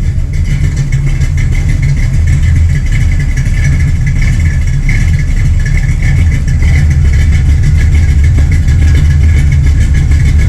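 Pontiac 455 V8 running steadily at idle through old Flowmaster mufflers with a crossover pipe, a loud, deep exhaust note that grows slightly louder partway through.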